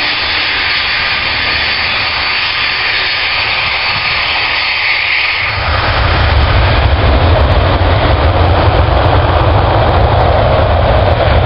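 Jet airliner engines running: a steady high-pitched whine, then about five and a half seconds in a deep rumble sets in suddenly and the sound grows louder.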